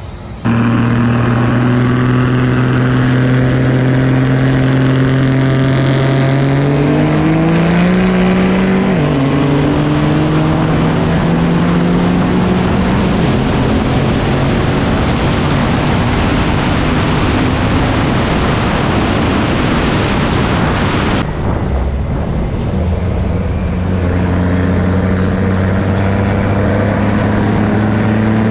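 Pickup truck engine pulling hard under acceleration: a steady note that climbs in pitch and drops at a gear change about nine seconds in, then a loud rushing full-throttle run. A cut a little past twenty seconds brings in another steady engine note.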